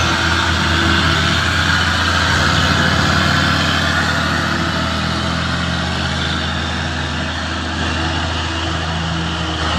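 Heavy truck engine running steadily, a low drone with a broad noisy wash over it, getting a little quieter in the second half.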